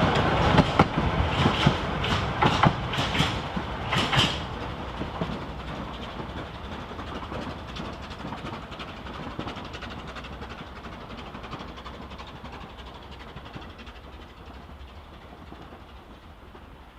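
Narrow-gauge steam train's wheels clicking over rail joints as it moves off, the clicks sharp for the first four seconds or so. The sound then fades steadily as the train draws away.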